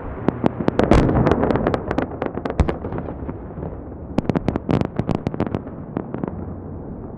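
Festive fireworks salute going off: rapid cracks and bangs over a rolling rumble. One dense volley comes about a second in and another just past the four-second mark, followed by scattered single cracks.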